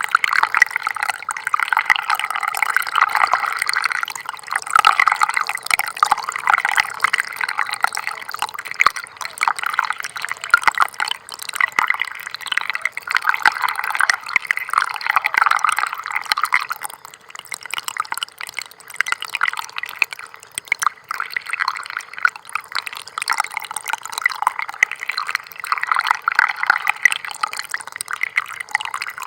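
Small stream trickling and babbling, a continuous patter of little splashes that swells and eases every few seconds.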